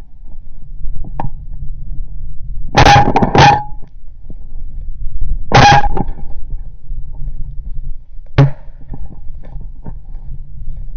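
Loud goose honks: two close together about three seconds in, another near six seconds and a shorter one about eight and a half seconds in, over a steady low rumble of wind on the microphone.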